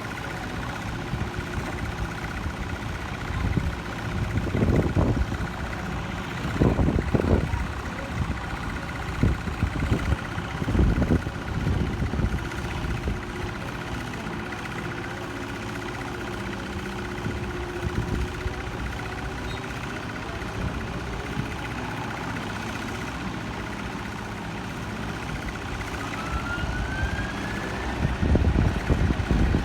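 Distant jet aircraft engines whining steadily, with a rising whine near the end, while gusts of wind buffet the microphone now and then.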